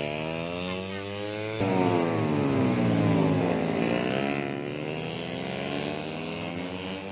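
150cc four-stroke underbone race motorcycles at high revs, passing by, their engine pitch sweeping up and down as they approach and go away. A louder bike comes in about a second and a half in.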